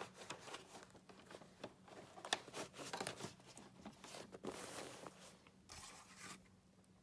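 Faint handling sounds from the open bag compartment of a Hoover Windtunnel upright vacuum: a sharp click at the start, then scattered light clicks, scrapes and rustling as hands move the plastic parts and filter.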